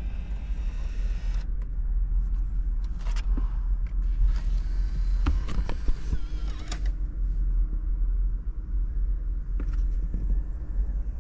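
Steady low rumble of a Nissan 370Z heard in its cabin, with scattered clicks and creaks and the stereo's music stopped.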